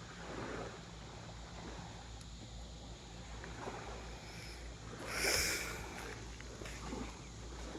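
Small waves washing on a sandy beach, with wind rumbling on the microphone. A brief louder hiss of water comes about five seconds in.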